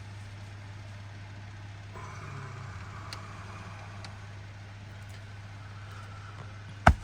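A small motor running with a steady low hum and a faint hiss. A single sharp, loud click comes just before the end.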